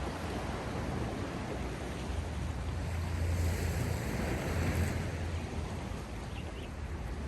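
Sea waves washing onto the shore, a steady rush of surf that swells about three seconds in and eases near the end.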